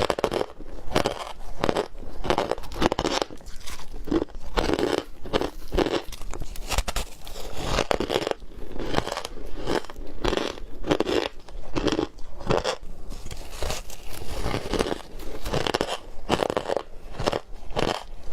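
Ice being bitten and chewed close to the microphone: a continuous run of crunches, several a second, from squeaky ice.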